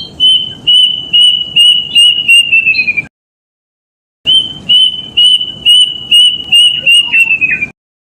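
Kedasih (plaintive cuckoo) singing two phrases of clear whistled notes, each a string of about eight notes that quickens and drops in pitch at the end, with a pause of about a second between them; a recorded lure call.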